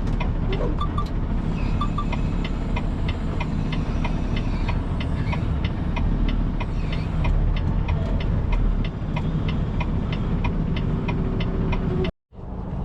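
Semi truck's diesel engine running low and steady while the rig is backed into place, with a quick regular ticking of about three short high ticks a second over it. The sound cuts out abruptly for a moment near the end.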